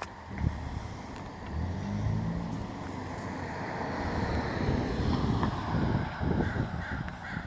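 Exhaust of a tuned 2016 Ford Fiesta ST's turbocharged 1.6-litre four-cylinder, running through a catless downpipe and 3-inch cat-back system as the car drives. The engine note builds in loudness over a few seconds, then turns choppy and uneven near the end.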